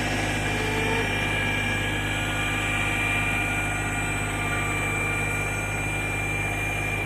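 Kubota tractor's diesel engine running steadily under way, with a thin steady whine above the low engine note.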